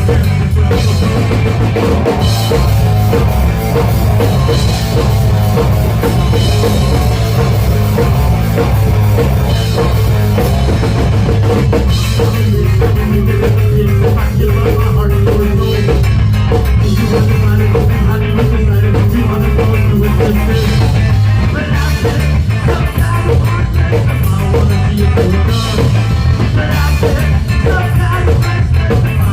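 Live rock band playing loudly, with full drum kit, bass and guitar.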